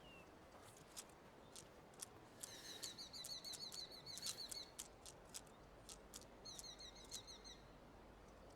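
Faint, quiet ambience: a small bird's rapid high trill, heard twice, over scattered sharp clicks.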